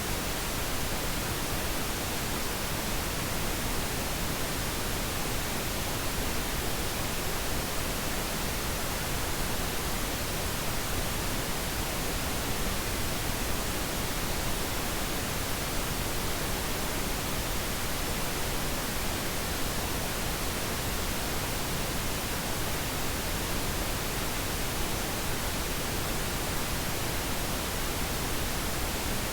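Steady pink noise: an even, unchanging hiss spread across the whole frequency range, played as a sleep aid for a baby.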